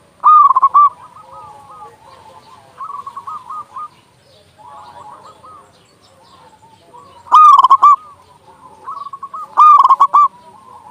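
Zebra doves (perkutut) cooing: rapid phrases of short, bubbling notes. One close bird sings three loud phrases, near the start, about seven seconds in and near the end, while fainter doves coo in between.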